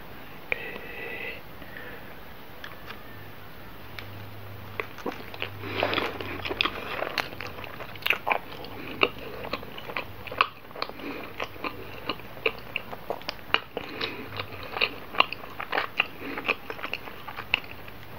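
Close-miked chewing of a soft milk bun filled with butter cream and chocolate sprinkles. It is quiet at first, then from about four seconds in there are many quick wet mouth clicks and smacks.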